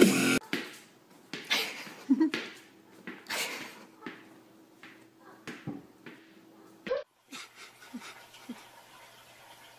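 A cat's paws scrabbling and skidding on a tile floor as it pounces after a laser dot: a string of short scuffs, one every half second to second, fading out after about seven seconds.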